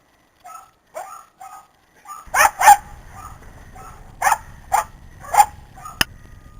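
Dog barking: a few soft yips in the first two seconds, then loud barks, two in quick succession about two and a half seconds in and three more spaced out over the next three seconds. A sharp click near the end.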